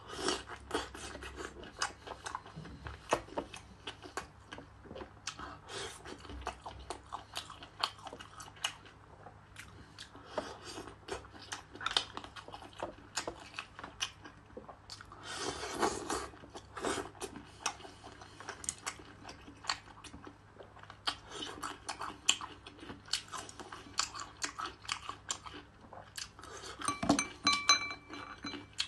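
Close-miked chewing and biting of food in spicy chili sauce: irregular wet mouth clicks and crunches, with a louder, longer stretch about halfway through.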